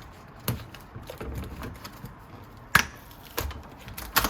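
A few scattered sharp clicks and knocks of iMac internal parts and hardware being handled and pried at during disassembly, the loudest about two-thirds of the way through.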